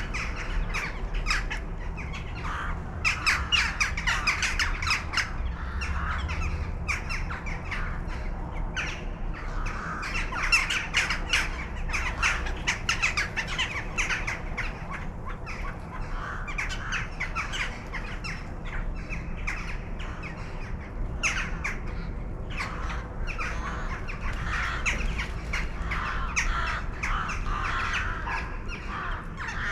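Many birds calling at once in a dense, continuous chatter of rapid harsh squawks, swelling and easing in clusters, over a steady low rumble.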